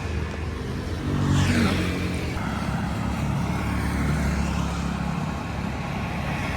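Street traffic: vehicle engines running steadily, with one vehicle passing close by between one and two seconds in.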